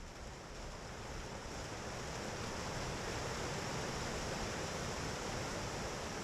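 A steady rushing noise with no distinct calls or knocks, growing a little louder over the first couple of seconds.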